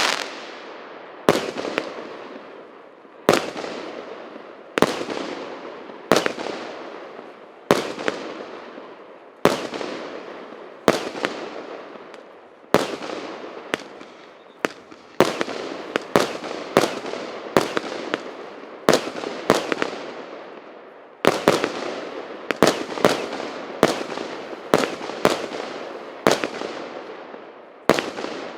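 A multi-shot fireworks battery firing shot after shot, each a sharp bang with a fading crackle after it. The shots come about one every second and a half at first, then faster and in quick clusters over the second half.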